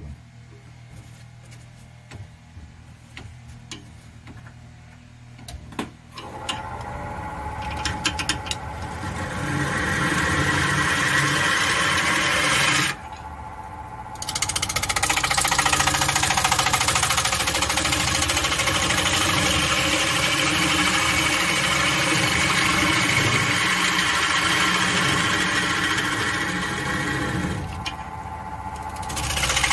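Wood lathe spinning up about six seconds in, then a turning gouge cutting into punky black walnut, a steady grinding hiss over the machine's hum. The cutting noise drops out twice, briefly, as the tool comes off the wood while the lathe keeps running.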